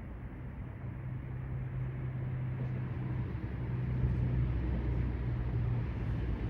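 Vehicle engine running at low, steady speed, growing gradually louder.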